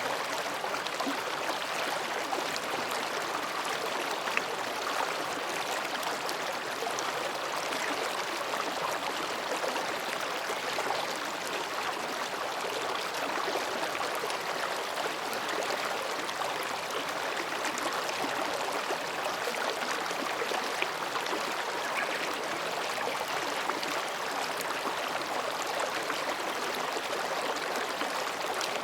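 Mountain stream babbling steadily over and between rocks, an even rush of flowing water with small splashes and trickles.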